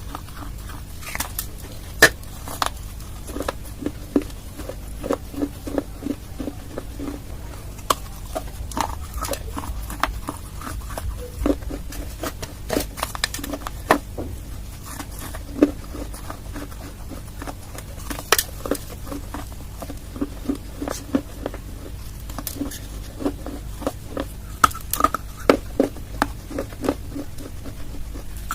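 Close-miked crunching and chewing of dry clay: irregular sharp cracks and crunches, several a second in places, over a steady low hum.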